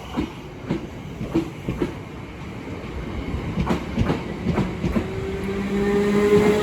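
Southern Class 455 electric multiple unit pulling out and picking up speed: its wheels click over the rail joints, and a motor whine joins in at about five seconds in, growing louder.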